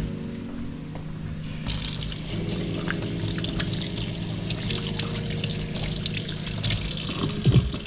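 Kitchen tap turned on about a second and a half in, water running steadily into the sink, over background music. A couple of light knocks come near the end.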